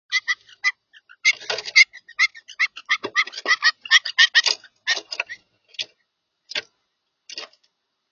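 Birds at a feeder: a quick, irregular run of short, sharp clicks and chip notes, dense at first and thinning to a few single ticks near the end.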